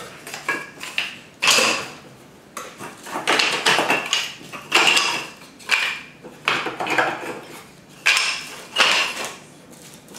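Beehive kit parts and packaging being handled and moved during unpacking: a string of short, irregular rustles and knocks, about one a second.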